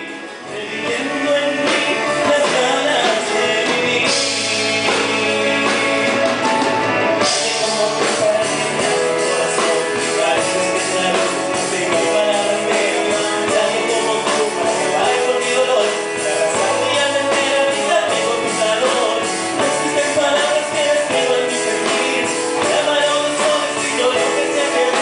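Live band performing a song.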